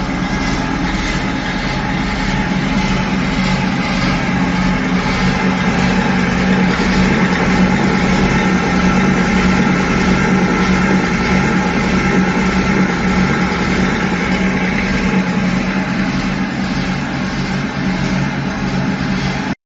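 Portable circular milling machine facing a large flange: the milling cutter runs steadily through the metal at a 1.5 mm depth of cut, over the steady hum of the machine's drive. The sound cuts off abruptly near the end.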